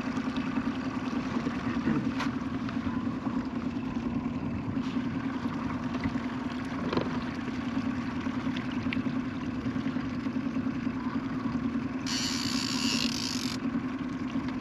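Boat's outboard motor running steadily at trolling speed, with a brief hiss near the end.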